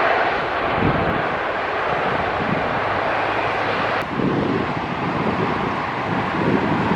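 Steady jet noise from a landing Boeing 747-8 freighter's GEnx engines. About four seconds in it cuts off abruptly, and wind buffeting the microphone takes over with fainter jet noise underneath.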